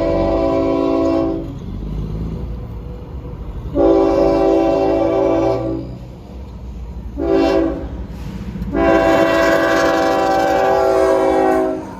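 CSX diesel locomotive's air horn sounding the grade-crossing signal: two long blasts, a short one, then a final long one, over the low rumble of the engines.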